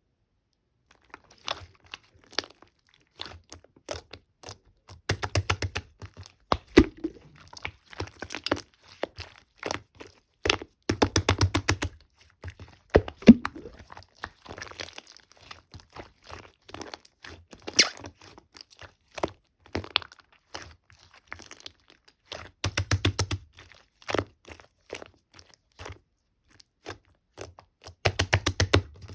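Hands squishing and kneading a mixed pink-and-black marbling slime, making bursts of rapid clicking and popping with sparser single pops between.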